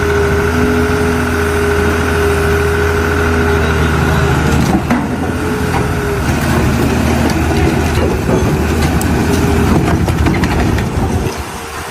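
A large vehicle engine running steadily, with a steady whine over it for about the first half. After that the sound turns rougher and noisier, with scattered knocks.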